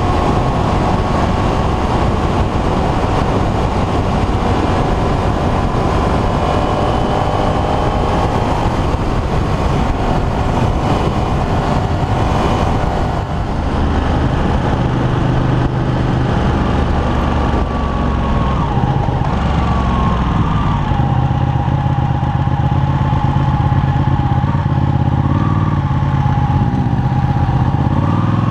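Sportbike engine running under way over a steady rush of wind and road noise. The engine note wavers in the first half, dips briefly about halfway through, then holds a steadier low note.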